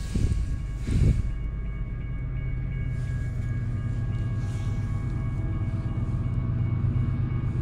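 Approaching BNSF intermodal train's diesel locomotives: a steady low rumble with a few faint steady higher tones over it. A brief bump sounds about a second in.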